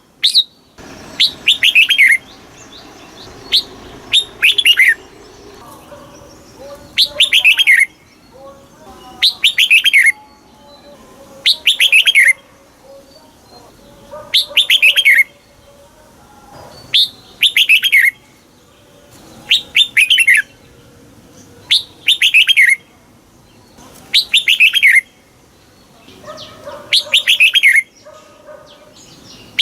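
Red-whiskered bulbul singing: a short phrase of quick notes falling in pitch, repeated about a dozen times, roughly every two to three seconds.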